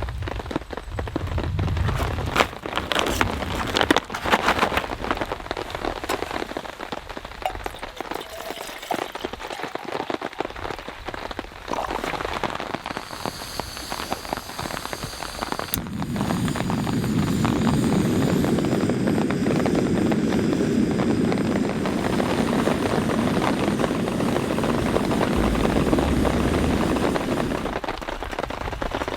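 Heavy rain in a thunderstorm. Sharp individual drop hits come first, then a little past halfway it turns into a louder, steady downpour that eases slightly near the end.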